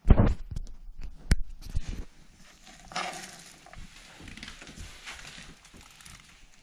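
Kitchen handling noises while cooking: a sharp knock at the start and another about a second and a half in, then faint scattered clatter and rustling.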